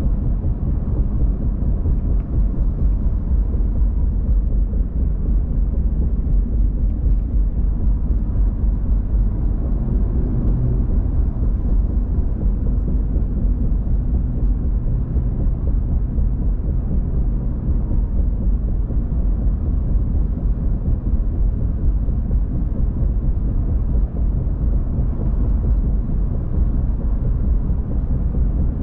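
Steady low rumble of a car on the move, road and engine noise with no break or change in level.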